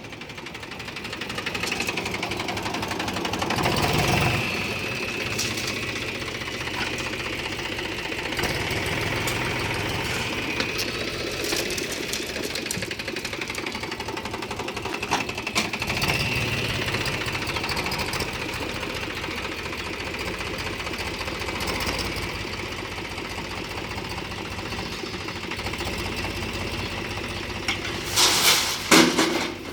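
Mahindra tractor's diesel engine running while its front-end loader works, with a higher whine that comes and goes. A few loud knocks near the end.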